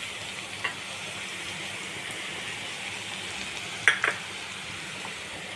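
Chopped onion and curry leaves sizzling in hot oil in a frying pan, a steady hiss. Two sharp clicks come about four seconds in.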